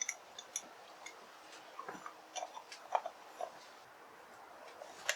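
Scattered light clicks and taps of small parts being handled and fitted by hand, irregular, with a sharper click about three seconds in and another near the end.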